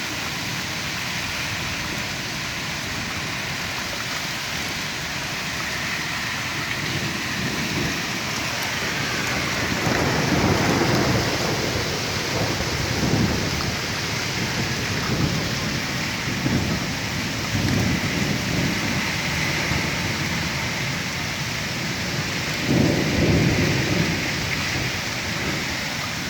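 Hailstorm in strong wind: a steady hiss of hail and rain, with low rumbling surges coming in from about ten seconds in, the strongest near ten and twenty-three seconds in.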